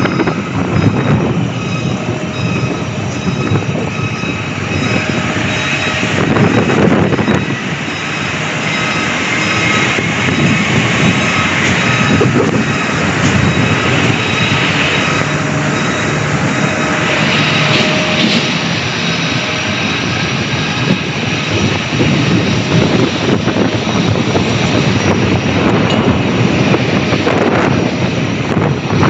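Airliner engines running loud and steady for the whole stretch, a broad roar with several high whining tones held over it.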